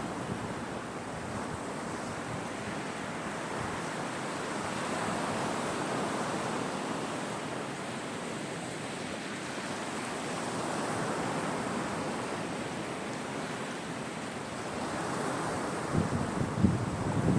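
Sea waves breaking and washing up a shore, swelling and easing in slow surges. Near the end, wind buffets the microphone in low, rough gusts.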